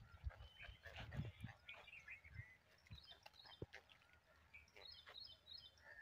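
Faint chirping and twittering of small birds, many short high calls in quick clusters, with a few soft low thumps.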